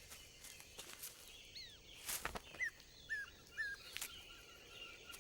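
A small bird giving short chirps that rise then drop sharply in pitch, three in a row about half a second apart, among brief rustling scuffs, the loudest of them about two seconds in.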